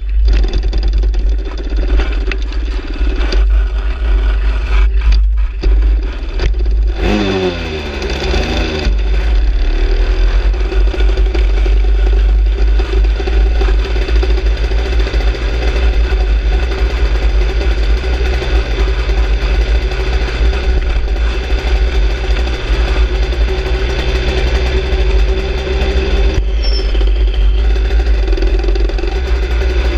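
Aprilia RS 125's single-cylinder two-stroke engine running at low revs on the move, with a short rise and fall in revs about seven to nine seconds in.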